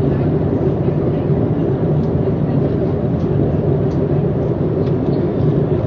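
Steady, loud rumble and rush of an airliner cabin in flight: engine and airflow noise heard from inside the plane.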